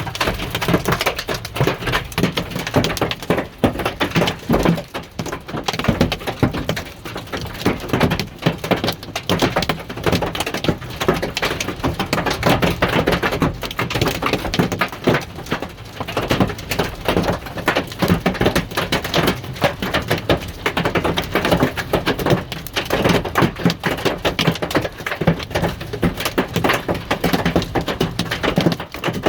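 Hailstones pelting down in a heavy hailstorm: a dense, unbroken clatter of many small sharp impacts, loud throughout.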